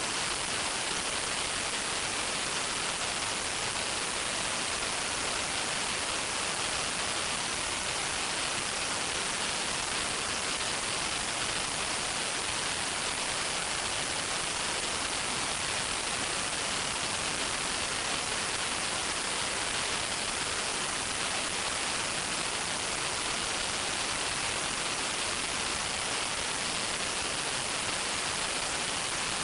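A steady, even hiss, heaviest in the upper range, with no crackles, knocks or changes.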